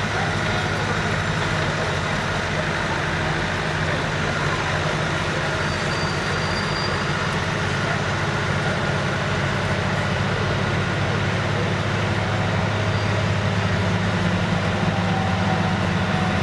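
Heavy vehicle engine running steadily with a low drone and a wide noisy rumble, growing a little louder near the end.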